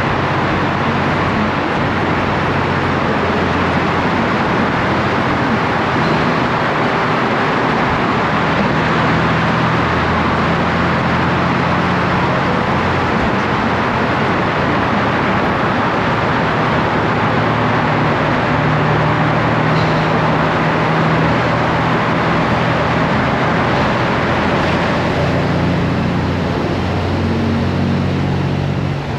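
Wind and road rush on a moving Honda Gold Wing DCT, over the low, steady hum of its flat-six engine, whose pitch shifts now and then with speed. The rush eases a little near the end.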